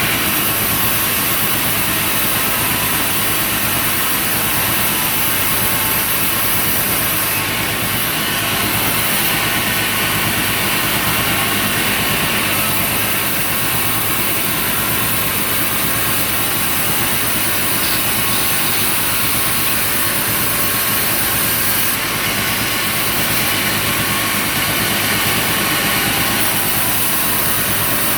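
Sawmill machinery running steadily, with an engine's steady drone under a dense, even noise and no pauses.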